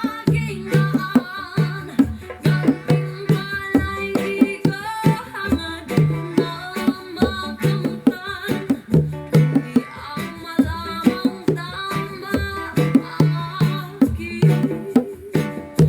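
Bongos played by hand in a steady repeating rhythm along with a Filipino folk song with plucked guitar and singing.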